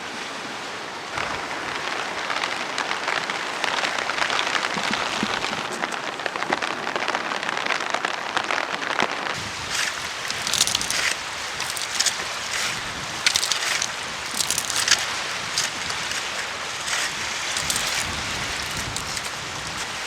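Steady rain, with a run of sharp crunching scrapes through the second half.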